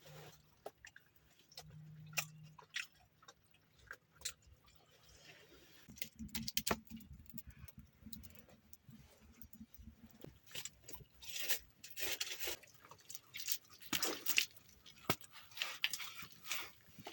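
Crunchy chewing and biting, irregular clicks and crunches that come thicker and louder in the second half.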